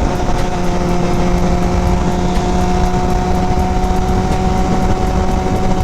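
Yamaha FZ1's inline-four engine running steadily at cruise, its note sinking very slightly, over a heavy rush of wind noise.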